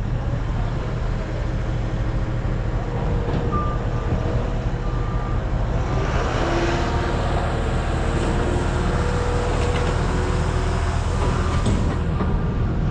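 Diesel engine of a piece of heavy equipment running steadily while it works, with a backup alarm beeping at intervals from a few seconds in. The machine gets louder and rougher for several seconds in the middle, as if pushing under load.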